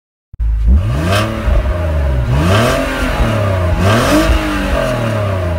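A car engine revving up and dropping back three times, starting abruptly.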